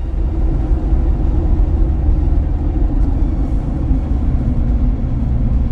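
A loud, steady low rumble that comes in abruptly.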